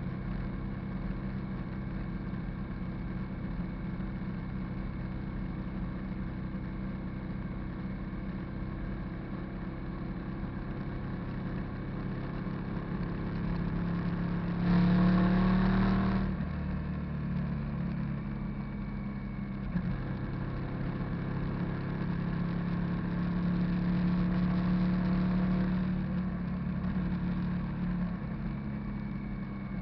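Hyosung GV650 cruiser's V-twin engine running steadily under way, with a short burst of acceleration about halfway through where the pitch rises and the sound gets louder, then a second, longer louder stretch later on.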